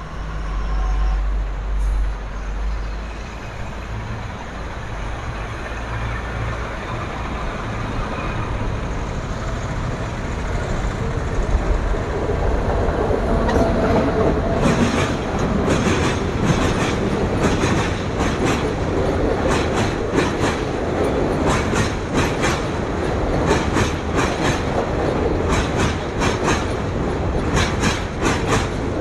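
Passenger train hauled by a WAP-7 electric locomotive running past: a low rumble in the first few seconds, then from about halfway the coaches' wheels clatter over rail joints in a steady clickety-clack that grows louder.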